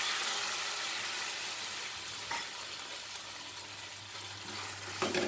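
Ginger paste sizzling in hot ghee in a stainless-steel frying pan, the hiss slowly fading. A wooden spatula stirs it, with a few light knocks against the pan about two seconds in and near the end.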